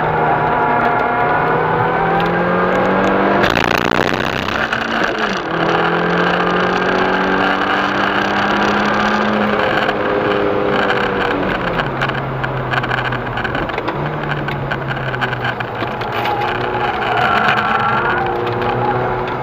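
VW Golf V GTI's turbocharged 2.0-litre four-cylinder heard from inside the cabin under hard acceleration, its note rising through the revs with a gear change about three and a half seconds in. Around twelve seconds the pitch drops as the car slows, then climbs again as it pulls out of the corner.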